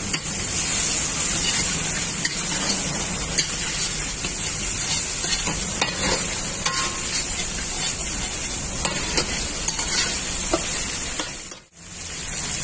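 Boiled eggs and chicken frying in masala in a wok: a steady sizzle, with a metal spatula scraping and clicking against the pan as it is stirred. The sound briefly cuts out near the end.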